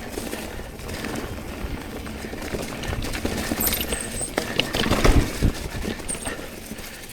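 Mountain bike rolling over a dirt trail: tyre noise with a run of rattles, clicks and knocks from the bike, loudest about five seconds in.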